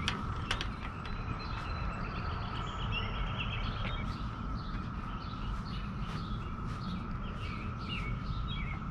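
Small birds chirping, with a few sharp clicks about a second in, over a steady low rumble and a constant high-pitched hum.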